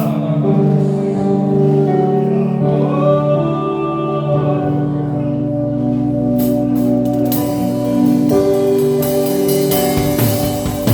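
Live church band playing gospel worship music: held chords with singing, and a drum kit's cymbals and hits coming in a little past halfway.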